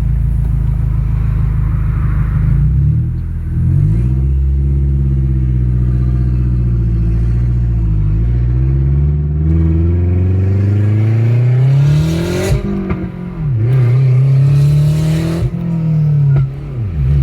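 Mazdaspeed6's turbocharged four-cylinder with an open downpipe, loud, idling and then accelerating hard: the engine note climbs and drops at several gear changes before settling back to a steady idle near the end.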